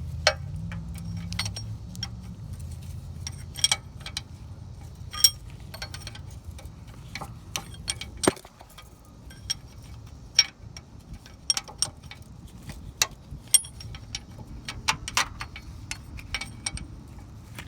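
Steel 14 mm open-end wrench clicking and clinking against a bolt in a tight spot: irregular sharp metallic ticks, a few a second, as the bolt is worked a little at a time. The loudest click comes about 8 seconds in.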